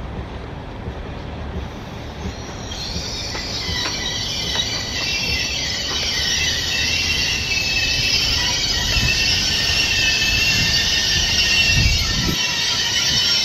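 TER multiple-unit train rolling slowly into a station and slowing towards a stop, its wheels squealing with several high-pitched tones that come in about three seconds in and grow louder, over the low rumble of the train.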